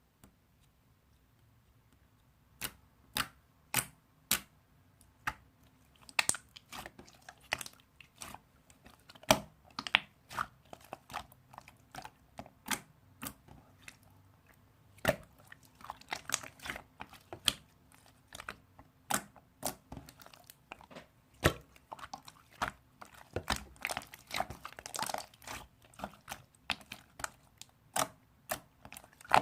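Slime being squished and stretched by hand: sharp, irregular pops and sticky clicks as air pockets burst, a few at first and then coming thick and fast from about six seconds in.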